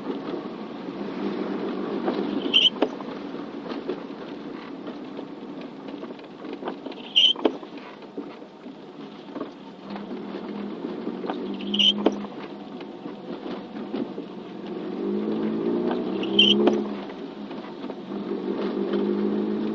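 Steady vehicle running noise in light rain, with a sharp click and a brief high chirp repeating about every four and a half seconds.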